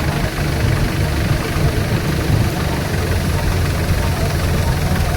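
Kartar 4000 combine harvester running steadily: a heavy low engine drone under a wide, even hiss of machinery.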